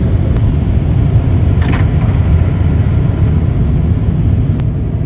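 Automatic car wash blasting the car, heard from inside the cabin: a loud, steady, deep rumbling rush, like a tornado, with a brief sharper hiss about a second and a half in.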